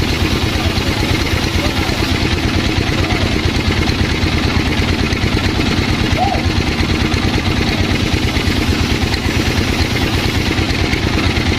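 Sawmill's engine running steadily at an even speed, with a fast regular pulse.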